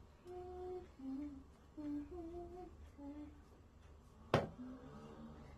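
A child humming a tune in a string of short held notes, with one sharp knock about four seconds in.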